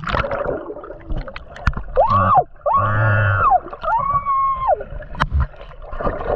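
Water gurgling and splashing, with many small clicks. Between about two and five seconds in come three short pitched calls that rise, hold and fall.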